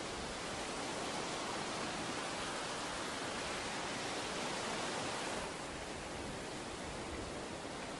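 Ocean surf washing on a beach: a steady hiss of waves that eases a little about five and a half seconds in.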